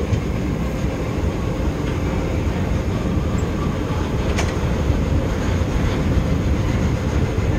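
Train running at speed, heard aboard: a steady rumble of wheels on rail, with one sharp click about four and a half seconds in.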